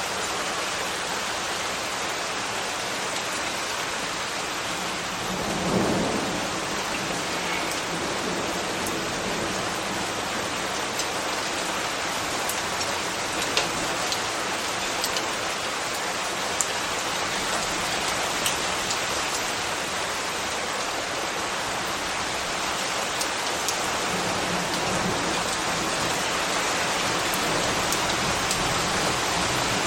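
Steady rain falling, with sharp drip ticks scattered through it and a brief low swell about six seconds in.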